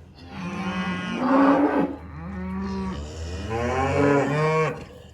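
A cow mooing loudly, two long calls one after the other, the second longer.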